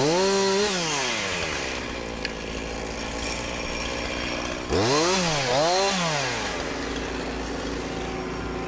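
Two-stroke chainsaw revved up sharply and let fall back to idle, then revved twice in quick succession about five seconds in before settling to a steady idle.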